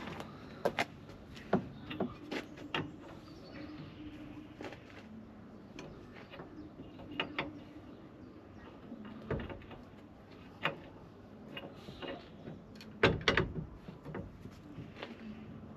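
Hand tools clinking and knocking on metal in irregular taps and clicks, with a louder cluster of knocks about thirteen seconds in.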